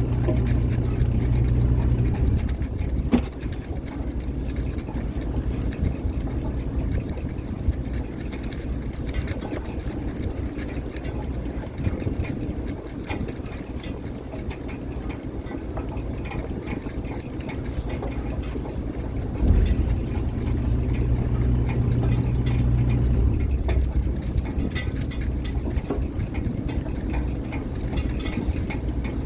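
Fishing boat's engine running steadily, with a heavier low drone for the first couple of seconds and again about two-thirds of the way through. Two sharp knocks stand out, one about three seconds in and one shortly before the drone swells again.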